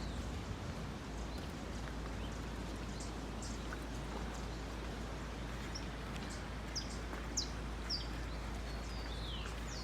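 Outdoor countryside ambience: a steady noise bed with scattered short, high bird chirps, a few of them close together in the second half and a falling call near the end.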